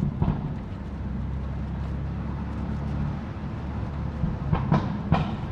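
BMW F80 M3's twin-turbo inline-six running steadily at low speed in traffic. There is a sharp knock just after the start and three more in quick succession near the end.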